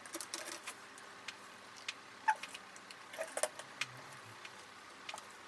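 Irregular light clicks and taps of small plastic parts being handled while a printhead is flushed with a cleaning syringe, with the odd short squeak. There are about a dozen clicks, unevenly spaced.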